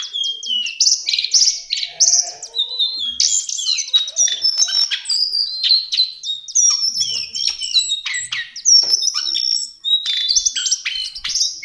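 Lesser shortwing (cingcoang coklat) singing a fast, nearly unbroken stream of varied high chirps, trills and short whistled notes, with only a brief pause near the end.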